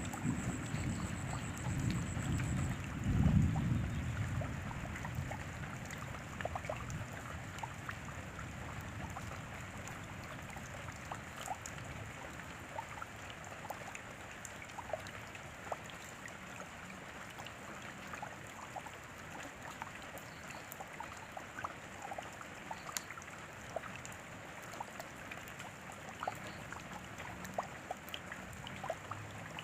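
Steady rain falling, with many separate drops clicking close by, several a second. A low rumble swells in the first few seconds and fades away.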